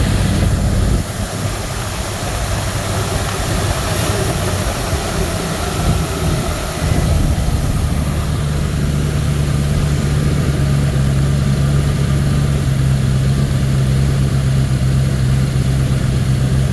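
1979 Ford Thunderbird's V8 idling on its own on a new fuel pump and fuel lines, no starting fluid needed. About eight seconds in the idle note becomes steadier and slightly louder.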